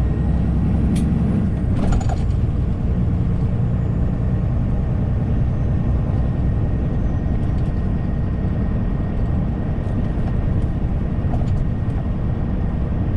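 Long-haul truck's engine and road noise heard from inside the cab while driving, a steady low rumble. Two short sharp clicks or hisses come about one and two seconds in.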